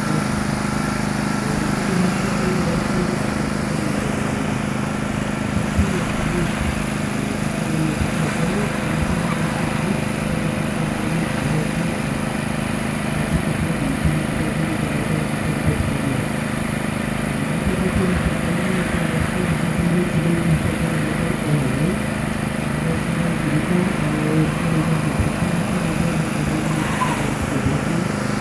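BMW Z3 engine revving up and down as the car is driven hard around a tight course, over a steady low drone; the car comes close near the end.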